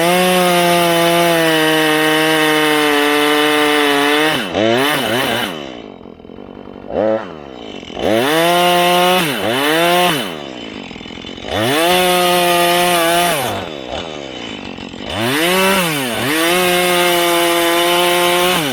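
Husqvarna 435 two-stroke chainsaw cutting into a pine trunk: four bursts at full throttle, each a few seconds long, falling back to idle in between with a couple of short blips of the throttle.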